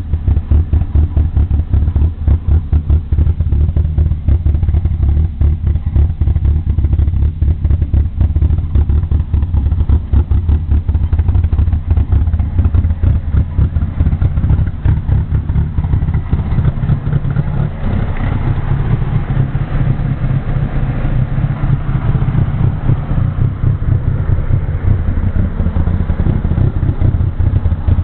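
Opel Corsa engine idling roughly, with a fast, uneven, lumpy beat: a rally-style idle.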